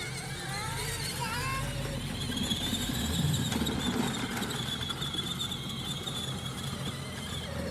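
A truck running with a steady low rumble, and a long, high-pitched squeal that holds a nearly level pitch from about two seconds in until near the end.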